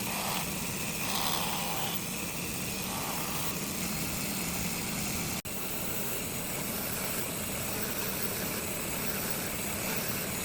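Electric grinding machine running steadily with the hiss of abrasive on steel, with a momentary break about five and a half seconds in.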